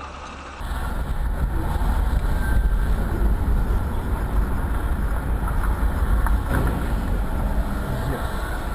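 Car on the move, its road and engine noise a steady low rumble under a broad hiss, with a few faint knocks about six and a half seconds in.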